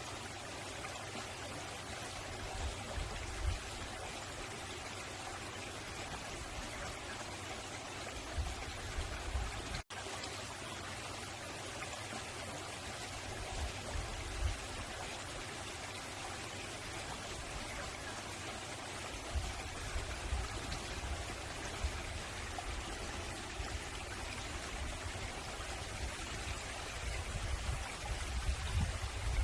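Mountain valley stream flowing: a steady rush of water over rocks. Bouts of low rumble come and go beneath it, mostly in the last third, and the sound drops out for an instant about a third of the way in.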